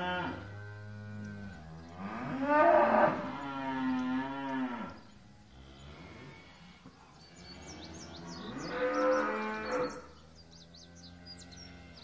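Cow mooing: three long, drawn-out moos, the second the longest and loudest.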